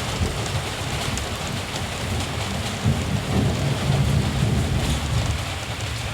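Steady rain pattering, with a low rumble of distant thunder that swells about three seconds in and fades again.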